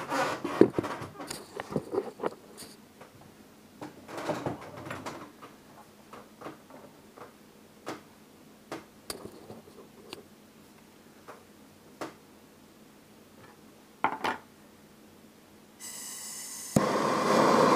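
Scattered clinks and knocks of small items being handled and set down. Near the end a hiss starts, and then a loud steady rushing comes in, as a MAPP gas torch is opened and lit for melting gold.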